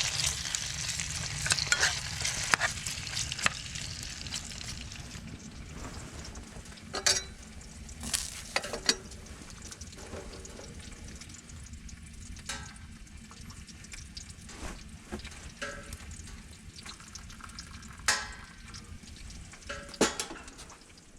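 Food sizzling and frying in a pan, with a few sharp clicks and knocks. The sizzle is loudest at first and dies down over the following seconds.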